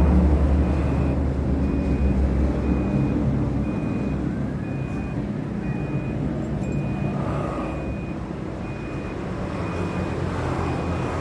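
A motor vehicle's engine rumbles close by and fades away over the first few seconds. Throughout, a short high beep repeats about twice a second.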